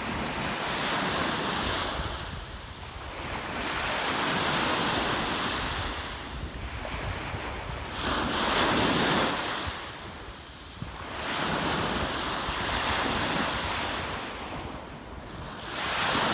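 Waves washing onto a lakeshore, swelling and falling back about every three to four seconds, with wind buffeting the microphone.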